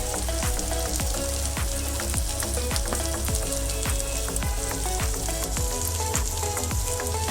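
Spiced gravy with capsicum sizzling and crackling steadily in a hot frying pan.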